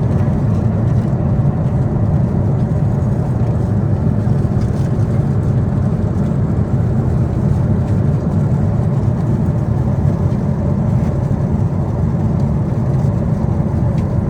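Steady low rumble of Boeing 747-8 cabin noise, engine and airflow noise heard from inside the cabin, with a faint steady hum above it.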